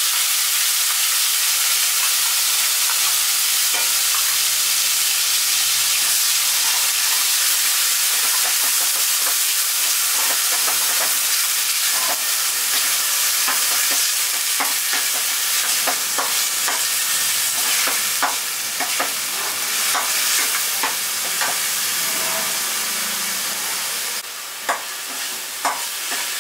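Onion paste sizzling in hot oil in a kadhai, stirred with a steel ladle that clicks and scrapes against the pan, the clicks more frequent in the second half.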